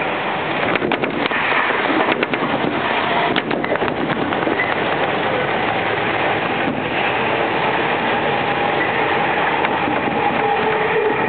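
Running noise heard inside a commuter electric train at speed: a steady rush of wheels on rail, with quick clusters of clicks as the wheels pass over rail joints, three groups in the first four seconds and one more about halfway.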